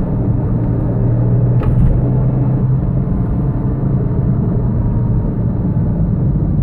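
Low drivetrain drone inside the cabin of a 2004 Porsche Boxster S under way, with a steady low hum that is strongest for the first five seconds and then eases. The noise comes on with throttle and was traced to a failing bearing in the transmission.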